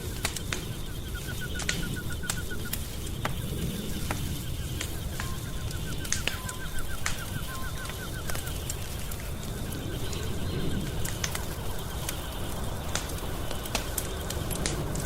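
Wood fire crackling in a fireplace: scattered sharp pops and snaps over a steady low rumble. A rapid ticking trill sounds twice in the background during the first half.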